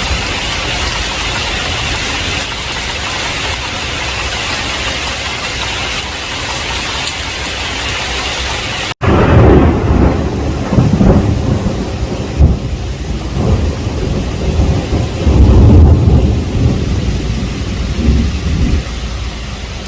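Heavy rain falling as a steady hiss. About nine seconds in, the sound cuts out for an instant, then a loud rolling thunder rumble sets in with rain. The rumble swells several times and eases off near the end.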